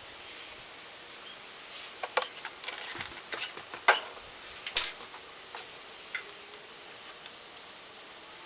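A quick run of sharp clicks and clinks, some with a short squeaky ring, bunched from about two to six seconds in, over a faint steady hiss.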